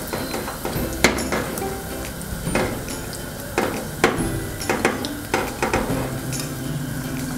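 Batter-coated okra deep-frying in hot oil in a nonstick pan: a steady sizzle with sharp pops and crackles at irregular moments, the strongest about a second in and around two and a half and four seconds in.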